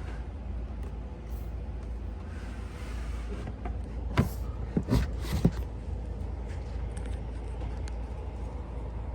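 Steady low hum with three sharp knocks a little after the middle, about four to five and a half seconds in.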